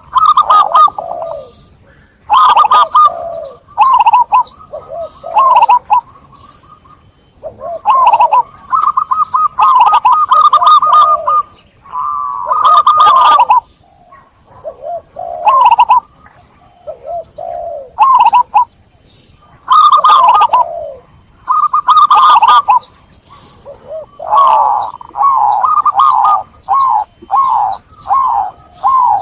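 Zebra dove (perkutut) cooing: a run of loud, rolling, trilled coo phrases, each about one to two seconds long, repeated with short pauses.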